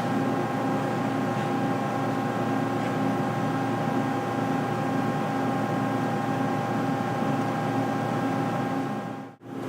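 Mori Seiki SL-8 CNC lathe running: a steady machine hum with several thin whining tones above it. It drops out briefly near the end.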